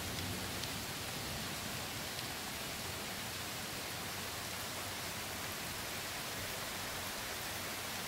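Steady rain falling in a thunderstorm, an even hiss with no thunder in it.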